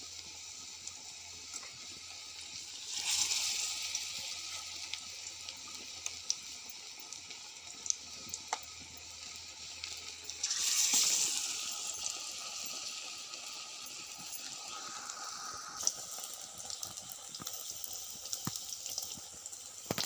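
Besan-battered brinjal slices sizzling as they deep-fry in hot oil in an iron kadai: a steady hiss that swells briefly about three seconds in and again about eleven seconds in, with a few light clicks.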